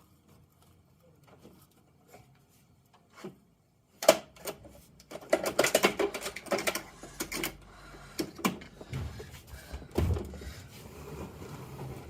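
Plastic clicking and rattling from a Bruder toy Mack garbage truck being handled. A few faint ticks come first; about four seconds in there is a burst of dense clattering, followed by a few lower knocks.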